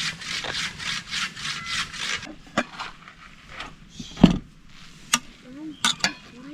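Rhythmic sawing or rasping strokes on wood, about four a second, stopping a little over two seconds in; then a few scattered knocks and one heavy thump about four seconds in.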